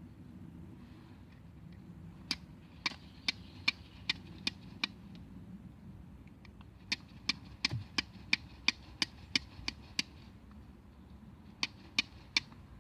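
Sharp chopping knocks in quick, even strokes of about two and a half to three a second. They come in three runs broken by short pauses.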